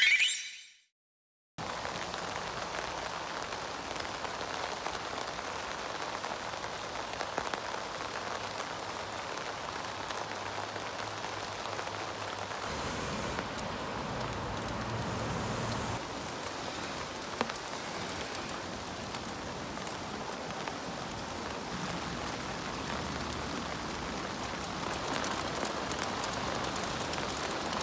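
Heavy rain falling steadily, an even hiss of many drops that starts about a second and a half in.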